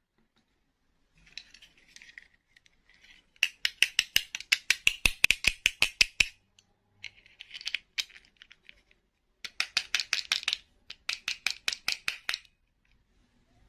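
Rapid, regular clicking rattle, about seven clicks a second, in four runs with short pauses between them.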